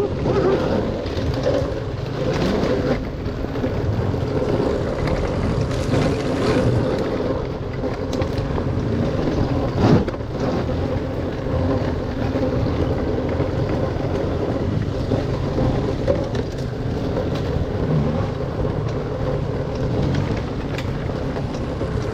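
Dirt bike engine running steadily, with a single sharp knock about ten seconds in.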